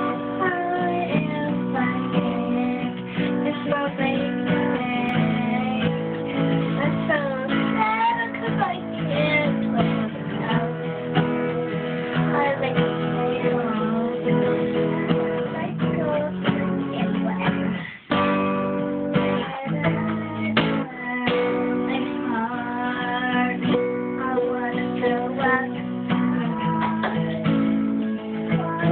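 Music: acoustic guitar strumming with a gliding melodic line over it, with a short break about two-thirds of the way through.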